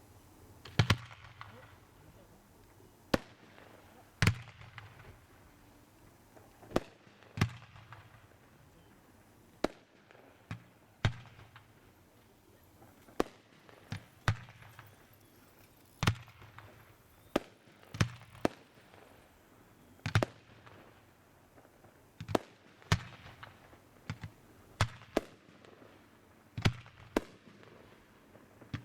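Aerial fireworks shells bursting in a steady series of sharp bangs, roughly one every one to two seconds.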